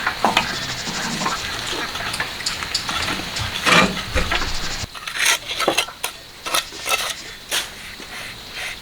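Irregular scrapes and sharp clinks of a metal tool against a hard surface, with a low background rumble that drops away about halfway through.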